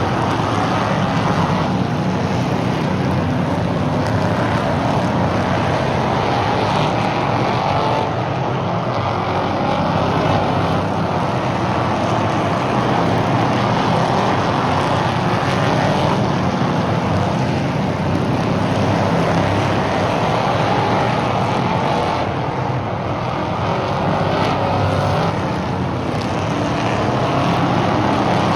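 Field of RS1-series stock cars racing around a short oval track, engines running hard in a steady, continuous din that dips slightly twice as the pack moves around the track.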